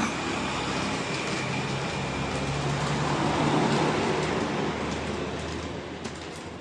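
Road traffic: a vehicle's engine rumble swelling as it passes, loudest about halfway through, then fading away.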